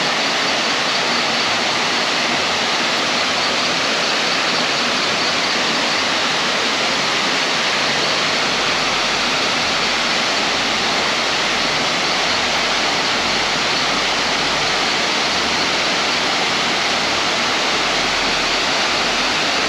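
A tall waterfall, about 91 m high, pouring down in a loud, steady rush of falling water.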